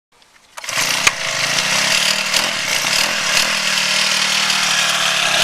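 Honda GX25 25 cc four-stroke engine of a motorized bicycle running steadily with a buzzing, chainsaw-like note, starting about half a second in after a brief silence.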